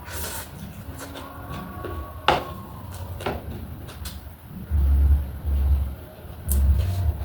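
Close-up eating sounds: a handful of sharp, crisp crunches and clicks. Then come heavy, deep low thumps in two spells, from about two-thirds of the way through and again near the end.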